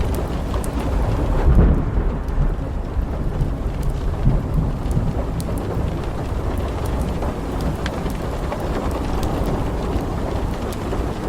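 Low rolling thunder rumbling over steady rain, swelling about a second and a half in. Scattered sharp crackles of a wood fire sound over the rain.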